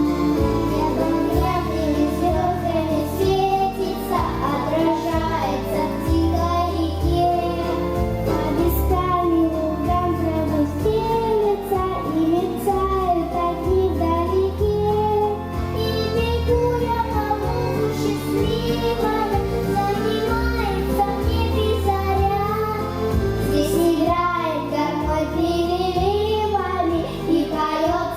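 Young girls singing a song together over musical accompaniment with a bass line changing every second or so.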